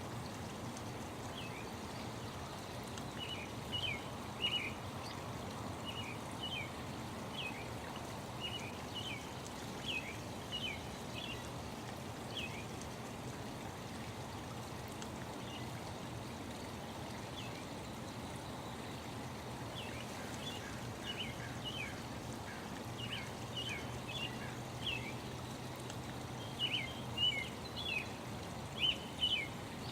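Small birds chirping in short, high, falling notes over a steady rush of running water. The chirps come in bursts with a lull in the middle, and the loudest ones are near the end.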